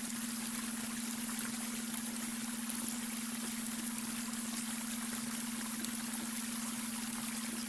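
Babbling brook: water running and trickling over stones in a steady, even stream. A steady low hum of a beta-wave brainwave tone runs underneath.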